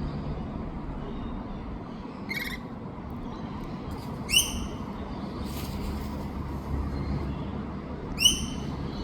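A wild bird calls: a quick little trill, then two short rising calls about four seconds apart, the second one loudest, over a steady low background rumble.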